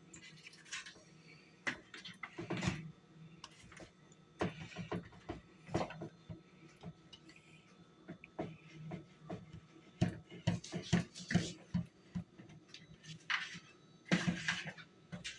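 Cake batter being mixed by hand in a bowl: irregular scraping and knocking strokes of the mixing utensil against the bowl.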